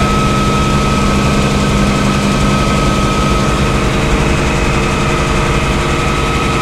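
Helicopter engine and rotor running steadily, a dense low beat under a constant high whine.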